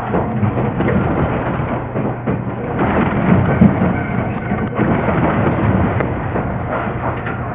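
Electric commuter train running, heard from inside the driver's cab: a steady rumbling noise of wheels on the rails and the running gear, with a faint low hum underneath.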